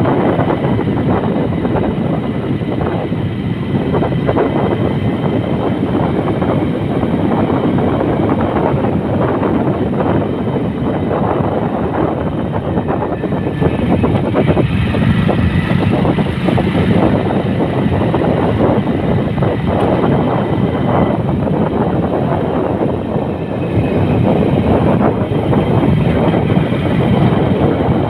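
Steady, loud noise of a vehicle on the move along a road, growing a little louder about halfway through and again near the end.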